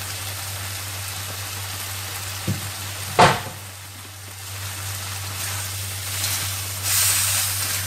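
Water spinach and onion sizzling in a wok with freshly added soy sauce, over a steady low hum. A sharp knock comes about three seconds in, and the noise grows louder near the end as a spatula stirs the greens.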